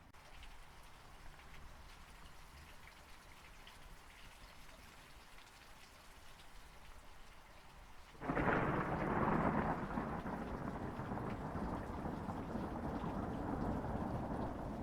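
Quiet steady rain, then about eight seconds in a sudden loud thunderclap that rolls on as a long rumble under the rain.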